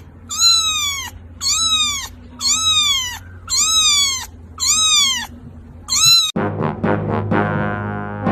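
A cat meowing six times, about a second apart, each call alike and rising then falling in pitch. About two-thirds of the way through it cuts off suddenly to music with brass instruments.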